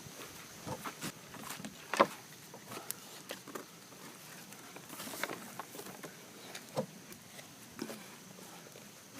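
Small wood fire crackling: scattered, irregular pops and clicks over a faint hiss, the sharpest about two seconds in.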